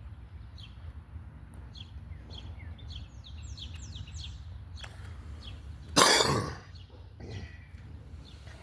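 Small birds chirping, short repeated high chirps, over a steady low background rumble. About six seconds in comes one loud, short, breathy huff that fades over half a second.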